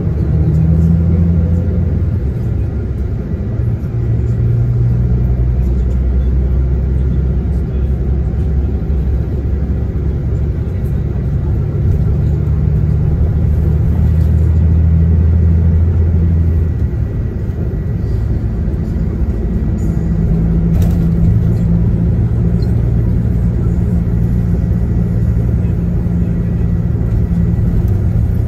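Coach bus diesel engine and road rumble heard from inside the cabin while driving. The engine note drops about two-thirds of the way through, then picks up again at a higher pitch a few seconds later.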